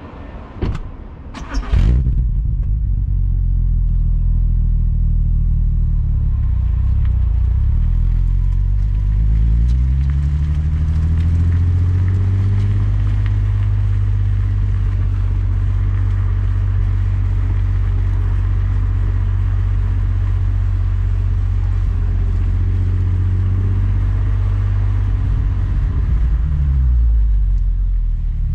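Skoda Superb's 3.6 FSI VR6 engine, heard through a Gestec cat-back exhaust, cranks briefly and fires about two seconds in, then runs steadily at idle. About ten seconds in its revs climb and hold at a higher, steady pitch, then drop back near the end.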